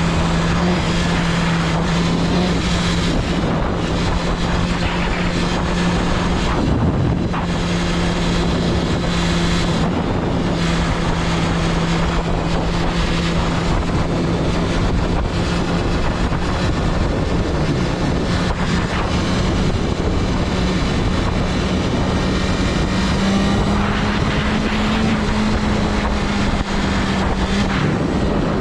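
BMW S1000RR's inline-four engine running at a steady cruise under a constant rush of wind, its note climbing slightly in the last few seconds as it speeds up.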